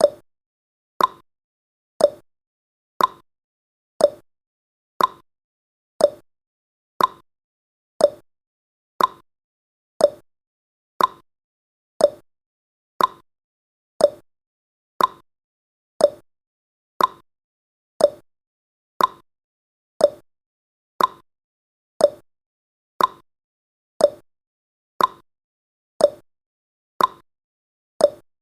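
Countdown timer's clock-tick sound effect: one short, sharp tick every second, steady and even.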